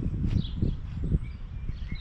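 Irregular low knocks and shuffling of a car door being handled and turned over, with faint bird chirps in the background.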